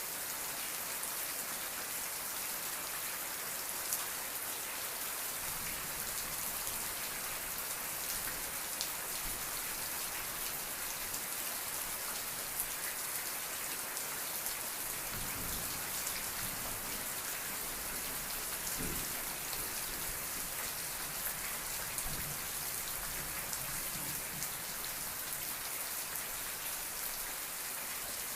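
Steady rain falling in a dense, even hiss of drops, with scattered sharper drop ticks. A few faint low rumbles sound partway through.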